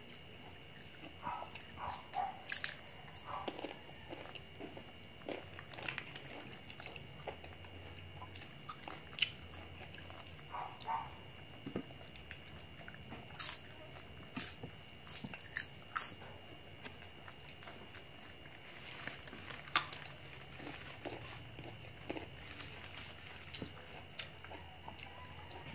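A person biting and chewing slices of crisp, unripe green mango, giving irregular crunches and wet mouth sounds.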